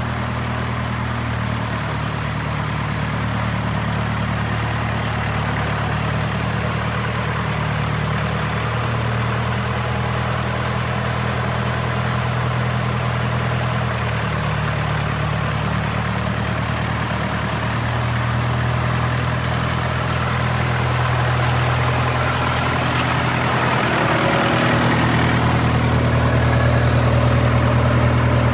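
International 674 tractor engine idling steadily, a little louder in the last few seconds.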